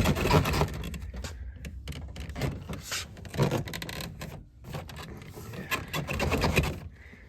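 Truck door panel being worked on by hand: rapid, uneven clicking and rattling of plastic trim and clips. It is loudest at the very start and again near the end.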